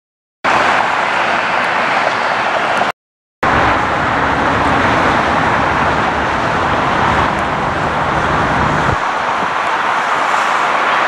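Steady, loud roar of vehicle noise that twice drops out to silence for under half a second. A deeper rumble underneath cuts off abruptly about nine seconds in.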